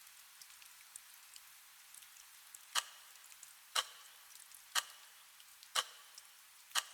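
Steady rain hiss. About three seconds in, five short, sharp ticks come one second apart: a countdown ticking off the last seconds of the work timer before the break bell.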